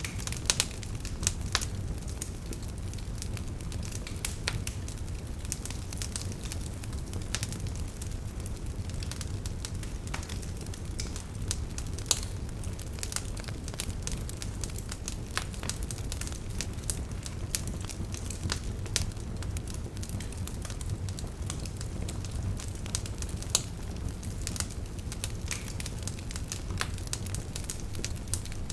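Wood fire crackling with frequent irregular sharp pops over a steady low rumble, a few pops standing out louder.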